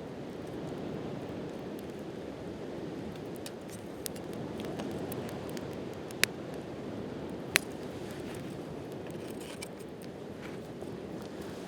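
Wood campfire crackling, with scattered sharp pops and two loud snaps about six and seven and a half seconds in, over a steady low rushing noise.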